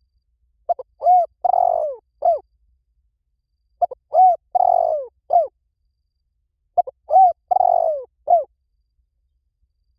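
Spotted dove cooing: three identical phrases about three seconds apart, each a couple of short notes, a longer rough-edged coo and a final short note. This is a call recording used as a lure for spotted doves.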